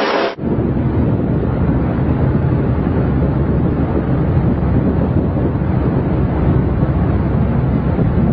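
Steady wind buffeting the microphone over the running noise of a moving vehicle, starting abruptly just after the beginning.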